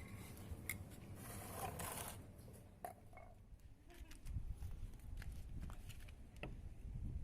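Faint scattered clicks and light scraping, like small parts being handled.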